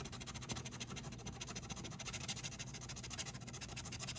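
Scratch-off lottery ticket being scratched, in rapid repeated scraping strokes.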